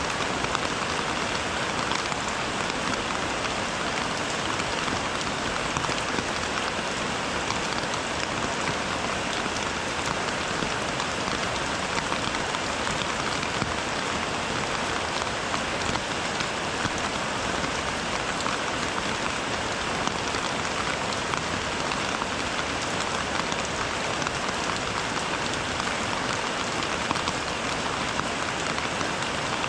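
Steady rain falling, a dense, even spread of drops with no change in strength.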